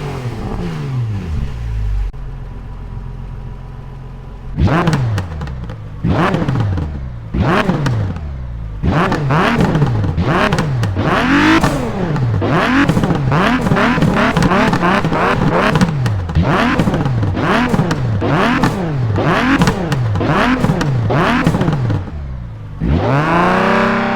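Nissan GT-R GT3 race car's twin-turbo V6 idling low, then revving over and over from about five seconds in, each rev a quick rise and fall in pitch about once a second, with a longer rising run near the end.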